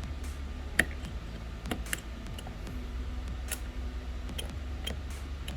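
Small repair tools clicking and tapping against an iPhone frame and pieces of broken back glass: a few scattered sharp ticks over a steady low hum.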